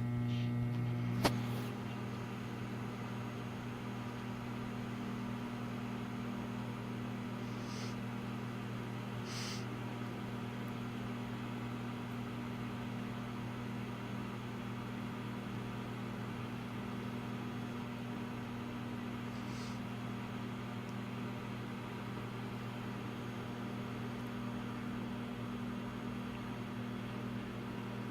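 Microwave oven running with a steady hum while the popcorn heats, before the kernels begin popping. There is a single sharp click about a second in, and a few faint ticks later.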